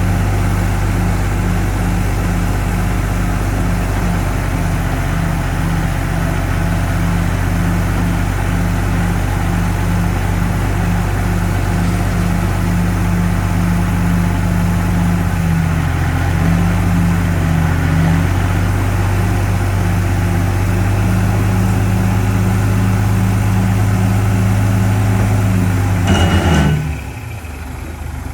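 Heavy diesel engine of earth-moving machinery running steadily with a deep, pulsing note. Near the end the sound drops suddenly to a quieter, lower hum.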